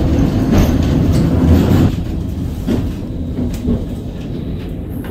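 Vintage tram running on street rails, heard from on board: a low rumble with clattering knocks from the wheels and body, louder for the first two seconds and then quieter.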